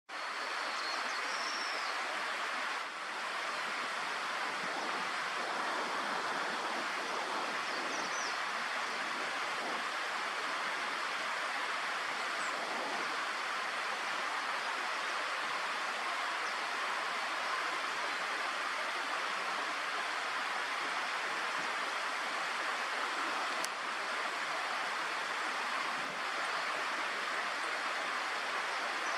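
Steady outdoor rushing noise, with a couple of faint, thin, high bird calls: one about a second in and another around eight seconds.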